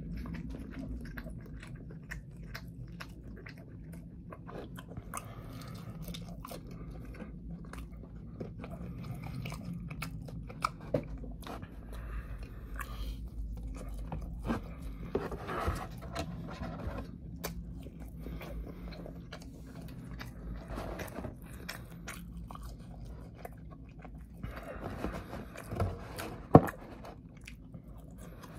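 A person chewing and biting into a Monte Cristo sandwich, eating sounds with many small clicks and a couple of sharper knocks, over a low steady hum.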